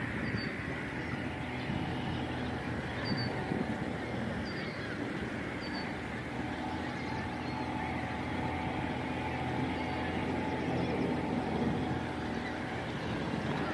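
A boat engine runs steadily, with about five short, high bird calls scattered over it.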